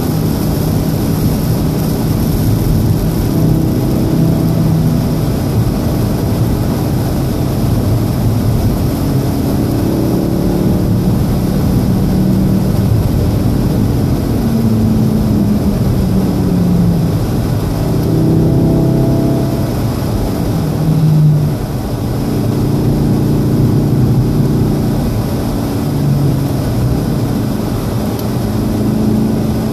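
Turbocharged 2.0-litre four-cylinder of a 2014 VW Golf R, heard from inside the cabin, pulling up through the revs and then dropping in pitch as the car slows for a corner. A steady hiss of tyres on a wet road runs underneath.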